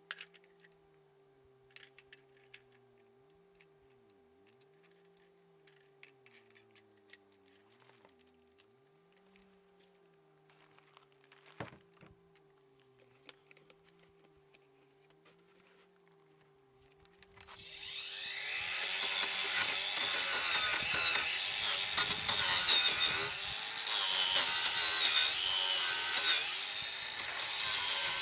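Saw cutting through wood, starting about two-thirds of the way in as a loud, rough, continuous rasp with brief dips. Before it there is only near quiet with a few faint clicks.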